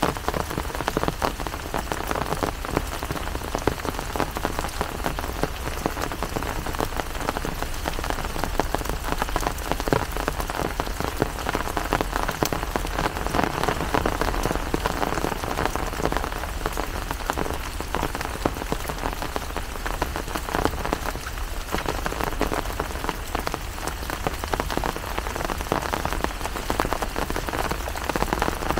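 Steady rain: a dense, even patter of many drops striking a surface.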